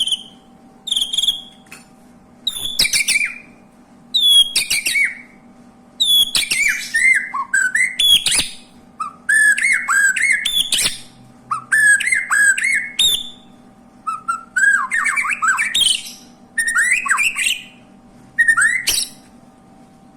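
Canary singing in short repeated phrases of rapid trills and swooping whistled notes, each lasting a second or two with brief pauses between them.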